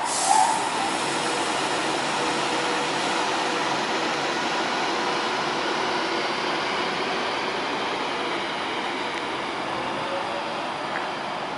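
Class 390 Pendolino electric train running slowly alongside the platform: a steady rumble of wheels and running gear with a faint humming tone, opening with a brief loud burst of sound and easing off very gradually.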